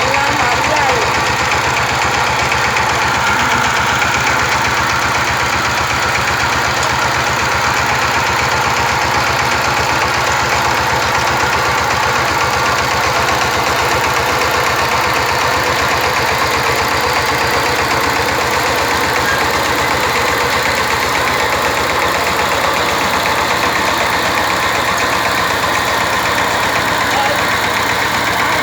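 Two-wheel tractor engine running steadily at an even speed.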